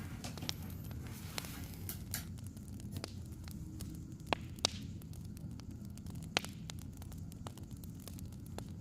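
Burning firewood crackling: irregular sharp pops and snaps over a steady low rumble, with two louder pops about four and a half seconds in and another about six seconds in.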